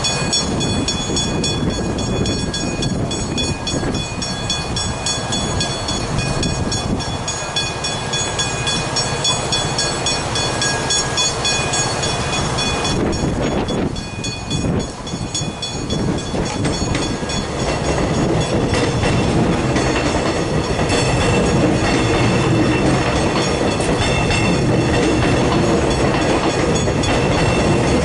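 Railway level crossing warning bells ringing in a fast, steady repeat while a train runs over the crossing. The train's running noise and wheel clatter grow louder about two-thirds of the way through.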